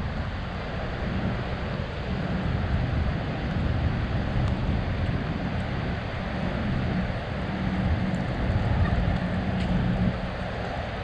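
City street ambience: a steady low rumble of traffic mixed with wind buffeting the GoPro's microphone.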